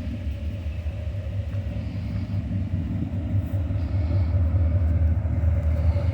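A vehicle engine idling: a steady low rumble that grows a little louder in the second half.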